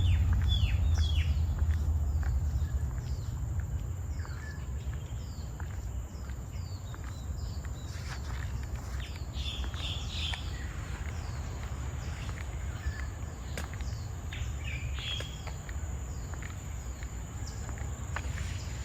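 Tropical forest ambience: a steady high-pitched insect drone under many short, downward-sweeping bird calls. A low rumble fades away over the first few seconds.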